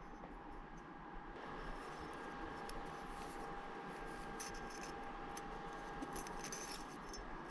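Faint, scattered metallic clinks and light rattles of small engine parts being handled, over a steady background hum.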